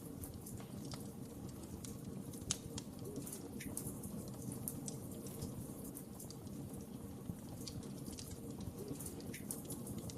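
Wood fire crackling: irregular sharp pops and snaps over a steady low rush of flames, with one louder pop about two and a half seconds in.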